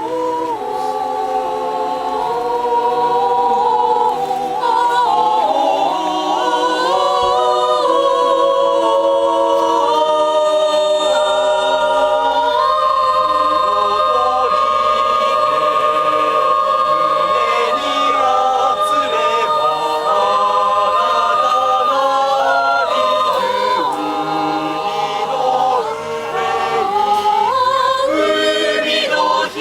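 Choir singing a slow song in several voices, with long held notes that step from one pitch to the next.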